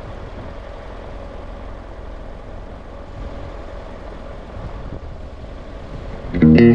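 Steady low rumble of a vehicle driving along a road, engine and road noise with no changes. Guitar music comes in loudly just before the end.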